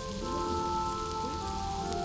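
Steady rain falling on a surface, a continuous hiss of drops, with soft background music of long held notes over it.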